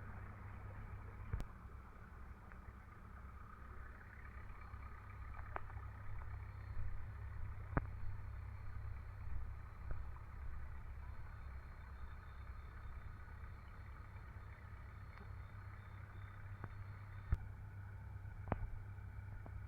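Tractor engine running steadily at a low, even pitch while driving a tubewell pump, with a few faint clicks here and there.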